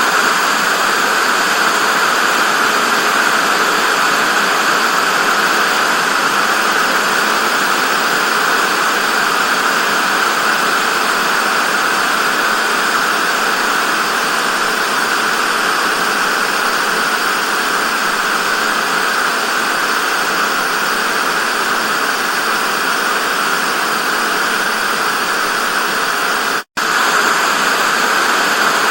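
Television static: a steady, even hiss, strongest in the upper-middle range, that cuts out for an instant near the end.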